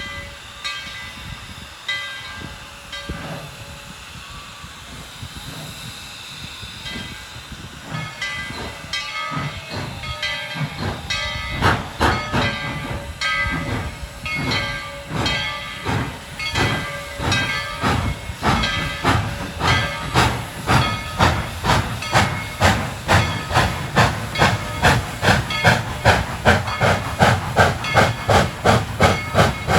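Steam locomotive hissing steam, then starting away: its exhaust chuffs begin slow and quicken steadily, growing louder, to a little over two beats a second near the end.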